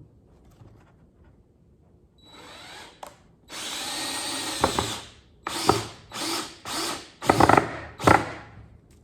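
DeWalt drill running into a pine board: a short run, then a longer steady run, then about five short bursts, the last ones louder, as a screw is driven and seated.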